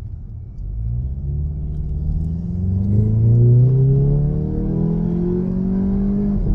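2019 VW Jetta GLI's turbocharged 2.0-litre EA888 four-cylinder accelerating hard in sports mode, heard from inside the cabin. The car is fitted with a CTS intake, turbo inlet and turbo muffler delete. The engine note climbs steadily from about half a second in and dips briefly near the end as it shifts up.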